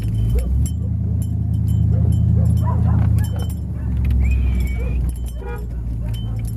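Truck engine running with a steady low drone inside the cab, and a dog giving a short high whine about four seconds in.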